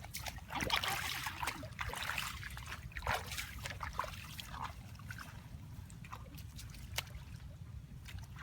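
Shallow water splashing and trickling in an irregular run of small splashes and drips, busiest about a second in, over a steady low rumble.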